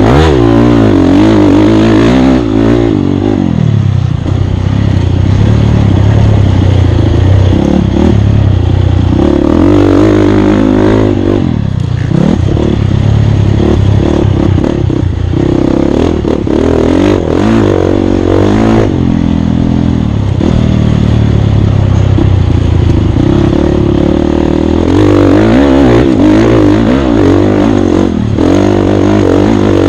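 Off-road racing motorcycle engine at close range, revving up and dropping off over and over as the rider opens and closes the throttle, with a few brief dips.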